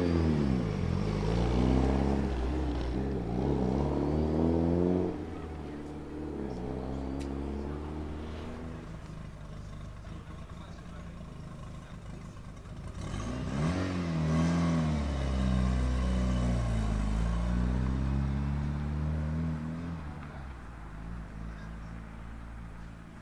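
Car engine revving, its pitch rising and falling repeatedly in two loud spells. The first spell stops sharply about five seconds in; the second runs from about the middle to near the end.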